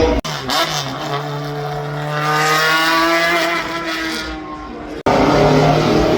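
Racing car engine under power, its pitch rising slowly and steadily. About five seconds in it cuts abruptly to another, louder car engine.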